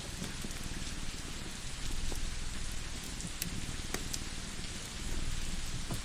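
Steady rain hiss, with a few sharp crackles and pops from a wood fire about three and a half and four seconds in, over a low continuous rumble.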